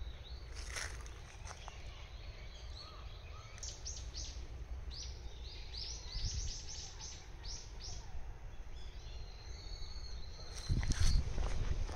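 Outdoor ambience: birds giving a quick run of short, high chirps in the middle, over a steady low rumble of wind that grows louder near the end.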